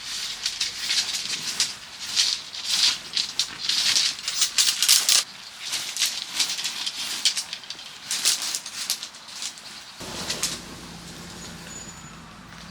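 Tent fabric rustling and crinkling in irregular bursts, as the nylon skin is handled or shaken by wind. About ten seconds in it gives way to a quieter, steadier background with a low hum.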